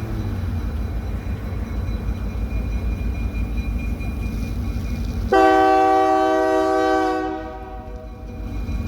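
Diesel locomotive engine running with a steady low rumble as the train pulls out, then one long horn blast of about two seconds beginning a little past halfway through.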